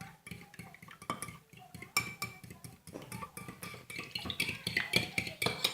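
Spoon beating milk and egg in a ceramic mug, clinking rapidly and unevenly against the sides.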